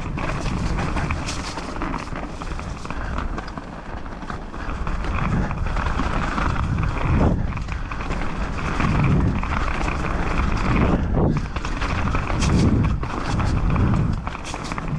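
Mountain bike descending a dirt downhill trail: tyres running over dirt and roots, with the bike rattling and clattering and wind rushing on the microphone.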